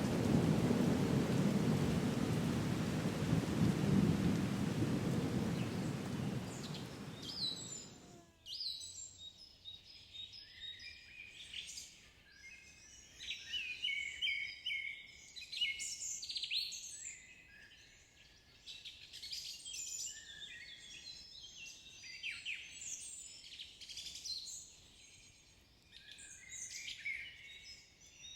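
Steady rain with a low rolling rumble of thunder, fading out about eight seconds in. After that, several birds chirp and sing in quick overlapping calls.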